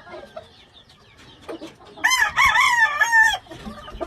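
A rooster crowing once, starting about two seconds in and lasting about a second and a half, with faint clucking before it.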